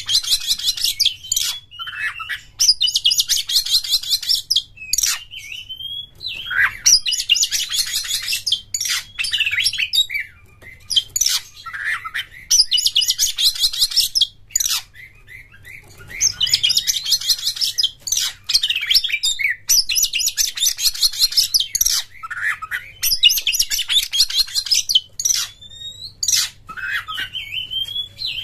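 Oriental magpie-robin (kacer) singing in the 'konslet' style. Fast, buzzy, electric-sounding trills of one to two seconds come about seven times, alternating with short whistled slurs and chips.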